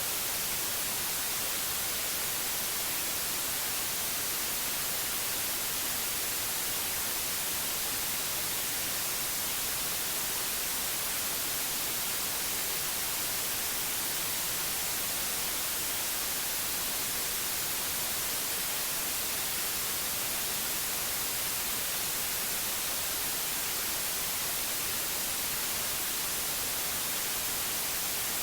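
Steady synthetic white noise: an even, hissy static, brightest in the high end, with no change in level.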